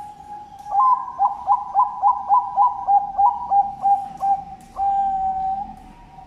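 Bangkok-type zebra dove (perkutut) cooing: a run of about fourteen short, quick coos, roughly three a second, ending in one longer held coo.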